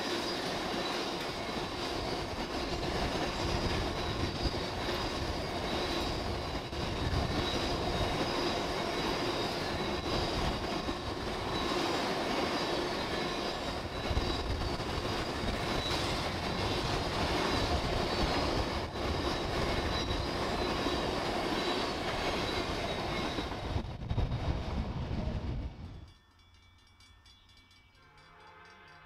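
Tank cars of a freight oil train rolling past at speed: steady wheel-on-rail rumble with clickety-clack over the rail joints and a steady high-pitched squeal. About 26 seconds in, the sound cuts off abruptly to a much quieter background.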